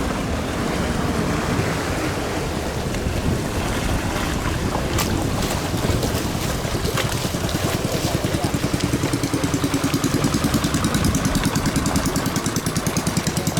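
Racing long-tail boat engines of the 5K class running on the water, with wind on the microphone. About eight seconds in, a close engine's running turns into a rapid, even pulsing of about six beats a second.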